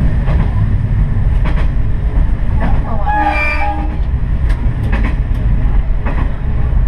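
Diesel railcar running along the line, a steady low rumble of engine and wheels with a few clicks from rail joints. A short horn blast sounds about three seconds in, lasting under a second.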